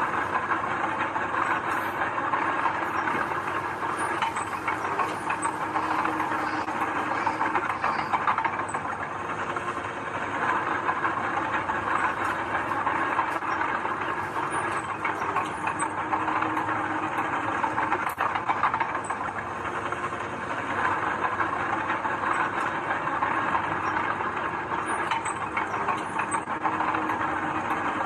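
Heavy earthmoving machinery at work: a steady diesel engine with a metallic clatter and occasional clanks.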